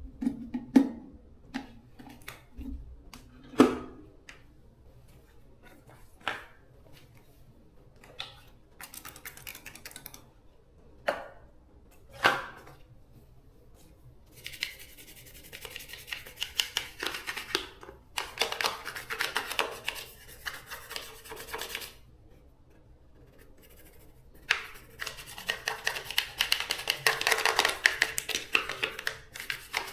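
Hand work with tools: a few separate sharp taps and clicks, then long stretches of steady scraping or rubbing that start about halfway through, pause briefly, and resume.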